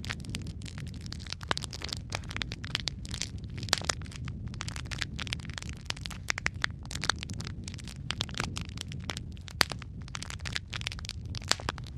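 Logs burning in a fireplace: dense, irregular crackling and snapping pops over a steady low rumble of the flames.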